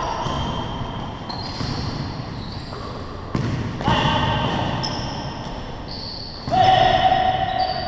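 Basketball game play on an indoor court: a ball bouncing, short high squeaks that fit sneakers on the floor, and players' voices. A sudden held tone lasting over a second comes about six and a half seconds in.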